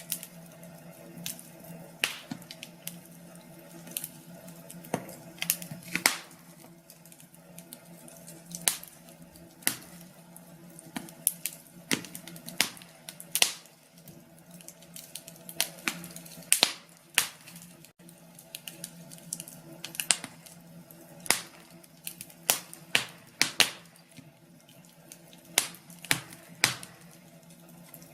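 Wood fire crackling: irregular sharp pops and snaps at an uneven pace, some much louder than others, over a faint steady hum.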